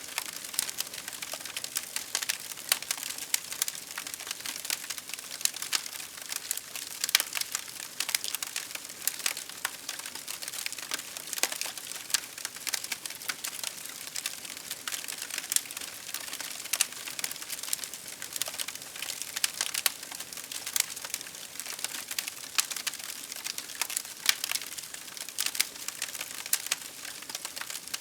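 Fire crackling: a steady hiss with frequent irregular sharp snaps and pops, some louder than others.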